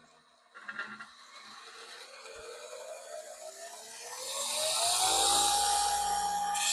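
Two-inch belt sander's electric motor switched on and spinning up: its whine rises steadily in pitch for a few seconds, then settles into a steady run at full speed.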